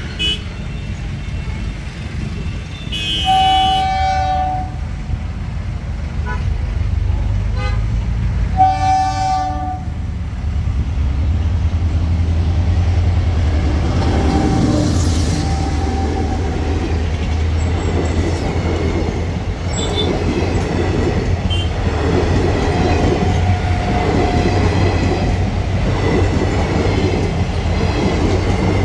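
Indian Railways passenger train sounding two blasts on its horn, a longer one about three seconds in and a shorter one about nine seconds in. Then a steady loud rumble of coach wheels on the track as the train runs past close by.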